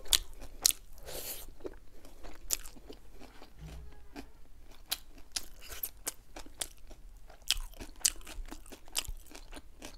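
Close-up eating sounds of a person chewing spicy chicken wings: wet chewing and lip smacks with many sharp, irregular clicks.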